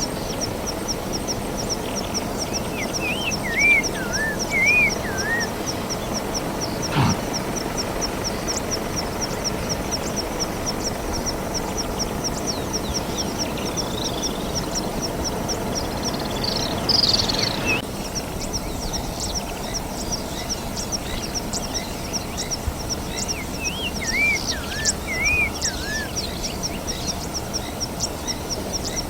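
Outdoor bush ambience: a high-pitched call pulses steadily several times a second throughout, over a low even background rumble. A bird whistles the same short phrase twice, and a sharper descending call comes about two-thirds of the way through.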